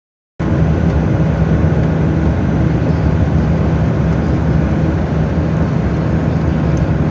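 Truck engine running steadily under way with road noise: a loud, even, low drone that begins abruptly about half a second in.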